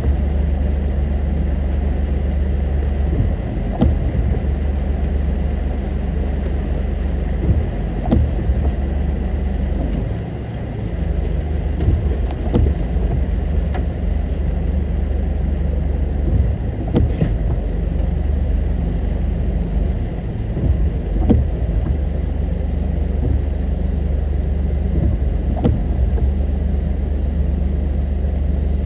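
Car on the move: a steady low rumble of engine and tyre noise, with brief knocks and bumps from time to time.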